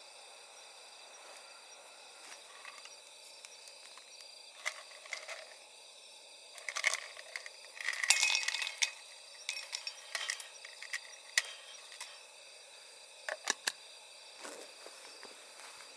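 Scattered light clinks and clicks, loudest in a quick cluster about eight seconds in, with a few sharp ticks later.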